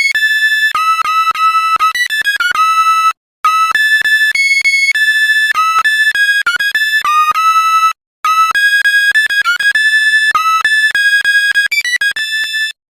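High-pitched synthesizer melody, one note at a time, in quick short notes like a ringtone tune. It breaks off briefly twice, about three seconds in and again about eight seconds in.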